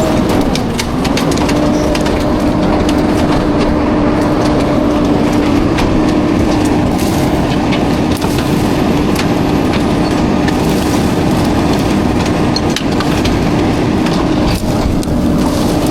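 Garbage truck working, with a steady mechanical whine that sags briefly in pitch about half a second in, over a running rumble, and frequent clanks and knocks.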